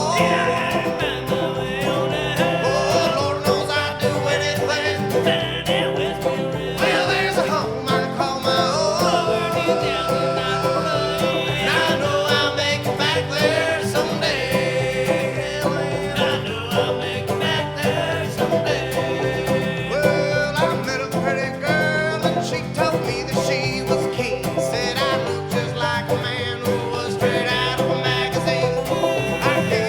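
Acoustic bluegrass band playing an instrumental break between verses of a song, plucked strings carrying a steady, brisk rhythm.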